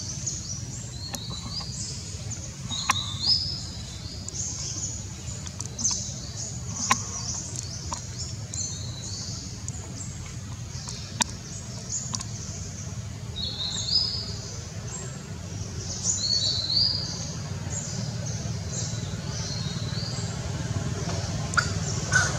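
Birds chirping repeatedly with short high calls, over a steady low background hum, with a few sharp clicks.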